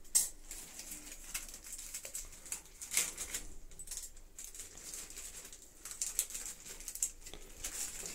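Scattered light clicks, taps and rustles of small items being handled, the sharpest about three seconds in.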